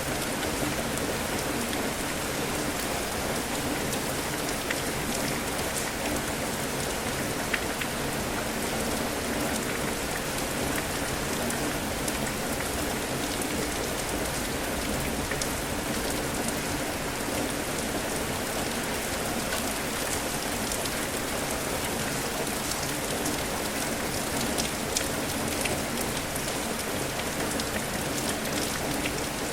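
Steady heavy rain, a dense even hiss with frequent sharp ticks of individual drops striking a surface.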